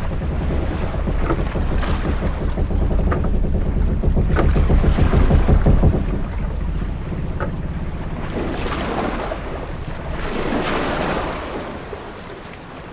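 Sailing-ship-at-sea ambience: wind and a heavy low rumble that eases off about halfway, then waves washing against the hull in two swells. A few brief creaks come through now and then.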